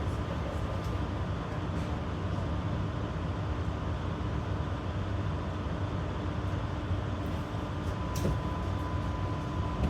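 Interior sound of a Berlin GT-type low-floor tram (GTZO): a steady low rumble with a constant electrical hum, and a single short click about eight seconds in.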